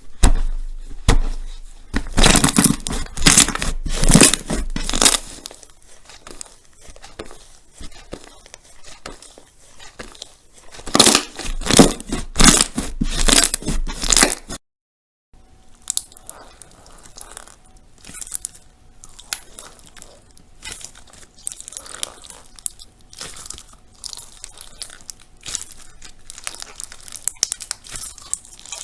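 Crunchy slime being squeezed and pressed by hand, giving dense crackling and popping. There are two loud spells of crackling, then a short break, then quieter crackling.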